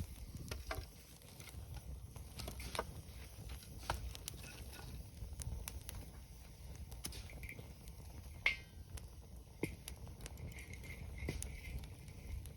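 Wood campfire crackling, with irregular sharp pops and snaps, the loudest a little past the middle, over a low rumble of wind on the microphone.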